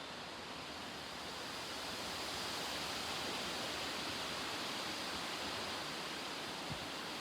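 Steady rushing noise of a severe thunderstorm's wind and heavy rain, growing a little louder about two seconds in.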